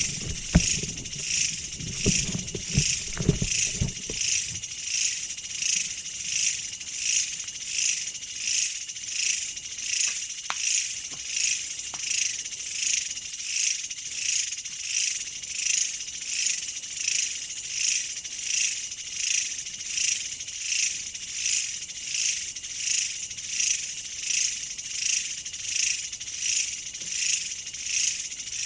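A chorus of insects calling, a high-pitched sound that pulses evenly about three times every two seconds. Low knocks and thumps sound through the first few seconds.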